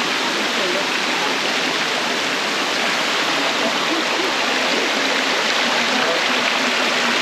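Waterfall rushing steadily, a loud, even sound of falling water.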